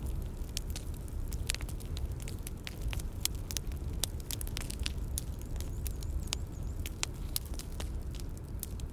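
Bonfire crackling: irregular sharp pops and snaps over a steady low rush of burning.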